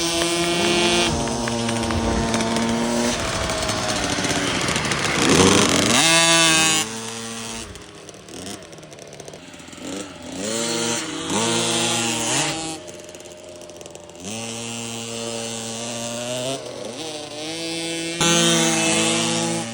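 Motocross bike engine running hard, its pitch climbing in quick rises and holding between them as the rider shifts through the gears. It drops away for a few seconds about halfway through, then comes back.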